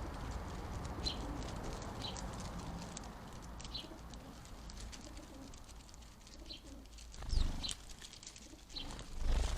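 Garden birds calling: short high chirps roughly once a second over a steady low outdoor rumble, with two low thumps near the end.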